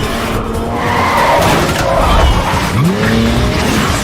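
Car-chase sound: tyres squealing and skidding, with an engine revving up sharply near the end.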